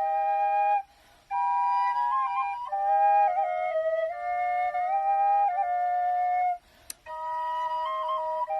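Two B♭ quenas, one of grenadilla and one of Honduras rosewood, playing a slow melody in two-part harmony, with short pauses between phrases about a second in and near seven seconds. A single small click sounds in the second pause.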